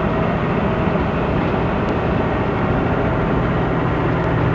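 Steady drone of a semi-truck's diesel engine with road and wind noise, heard from inside the cab while cruising on the highway with a loaded trailer.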